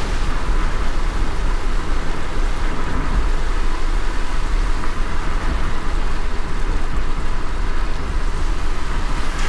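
Car driving in light rain: steady road and engine rumble under an even hiss of rain and wet tyres.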